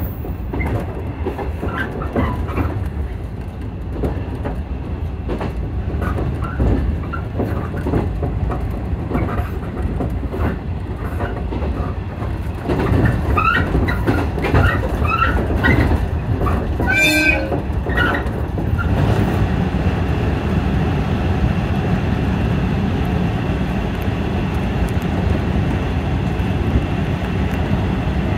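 JNR-era 115 series electric train running, heard from inside its driving cab: a steady running rumble with wheels clicking over rail joints and points. A little past the middle come brief high wheel squeals, and from about two-thirds of the way through the rumble grows louder and steadier as the train runs into a tunnel.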